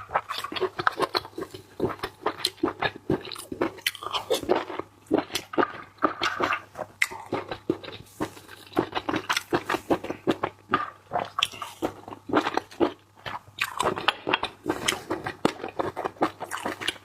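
Close-miked eating of seafood: steady chewing and biting, with many quick crunches and wet mouth clicks.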